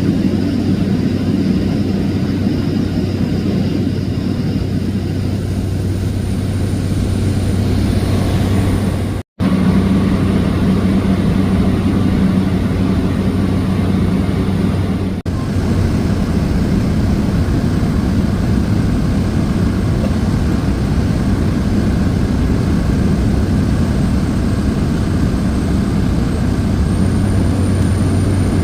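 Cessna 208 Caravan's single PT6A turboprop and propeller droning steadily in flight, heard from inside the cabin as a loud, even hum with a low tone. The sound is broken twice by brief silent gaps.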